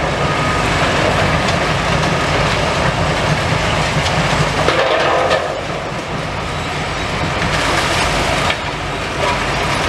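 Heavy demolition machinery at work: diesel excavators running with a steady loud low rumble and intermittent clattering.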